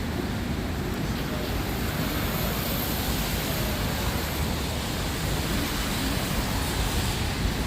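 Steady rushing rumble of a moving vehicle, with no distinct knocks, tones or voices.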